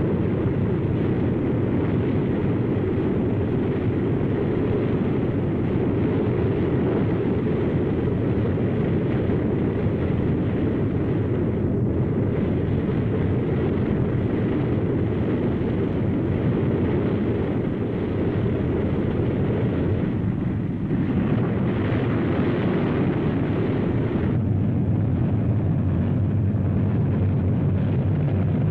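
Piston-engined propeller airliner at takeoff power, its engines and propellers running loud and steady through the takeoff run. The tone shifts about two-thirds of the way through, and a lower hum comes in near the end.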